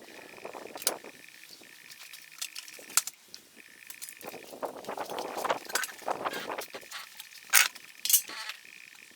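Metal tools and small parts clinking and knocking in scattered strikes during motorcycle disassembly, two sharp clinks near the end the loudest, with some rustling handling in between. A steady high buzz stops and starts in the background.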